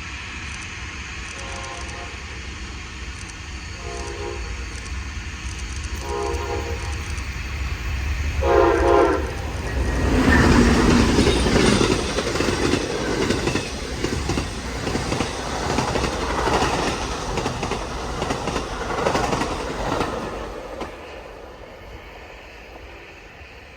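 Amtrak passenger train sounding four blasts on its horn, about a second each, then passing close by at speed with wheels clattering over the rail joints. The passing noise fades away near the end.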